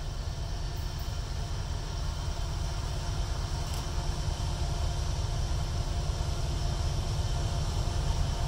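Distant freight train's diesel locomotives, an EMD SD60E leading two GE units, approaching. A low rumble with faint steady engine tones, growing slowly louder as the train nears.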